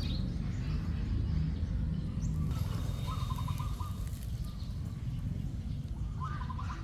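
A small bird chirping twice, two short warbling trills a few seconds apart, over a steady low rumble.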